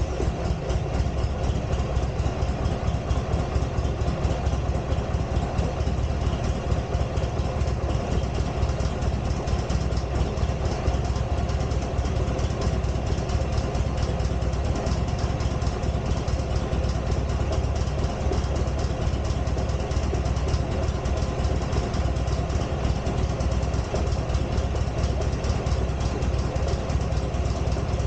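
Buell XB12R's air-cooled V-twin engine idling steadily with an even, rapid pulse, just after starting, running so the charging voltage at the battery can be checked.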